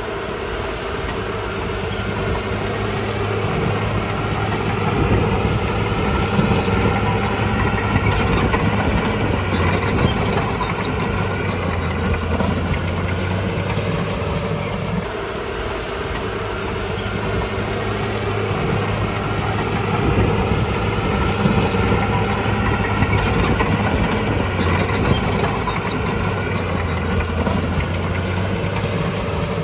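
Heavy bulldozer diesel engine working under changing load, its sound swelling and easing twice, with brief clusters of clanking about ten seconds in and again near twenty-five seconds.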